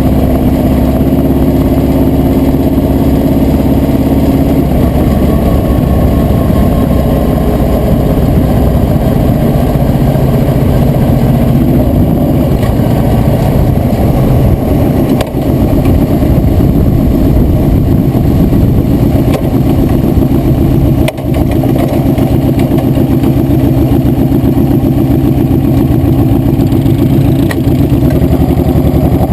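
A vehicle engine running steadily while on the move, loud and continuous. Its note shifts about five seconds in, and there are two brief dips in level later on.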